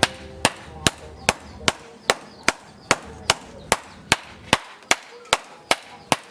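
Hand hammer striking metal in a steady rhythm, about two and a half sharp blows a second, sixteen in all.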